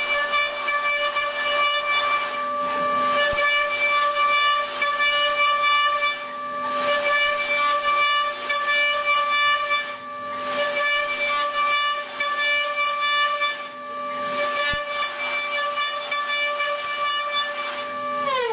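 CNC machine spindle running at a steady speed: a constant high whine over a hissing noise that swells and eases every few seconds. The whine falls steeply in pitch at the very end as the spindle spins down.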